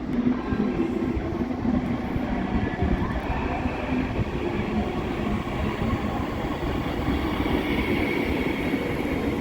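A train moving at a station platform: a steady rumble with faint hums, and a higher whine that grows about eight seconds in.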